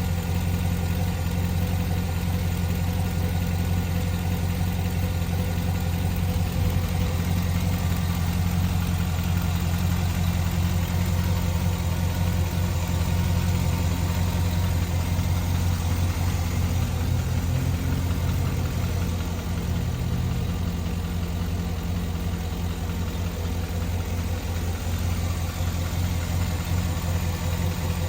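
A 2007 Cadillac Escalade's 6.2-litre V8 engine idling steadily with an even low hum.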